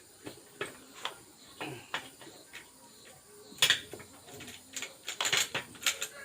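Metal clinks and knocks of a Bajaj Pulsar 220's gearbox pinion gears and shafts being worked down into the engine crankcase until they seat. Sparse light clicks at first, busier and louder from about halfway.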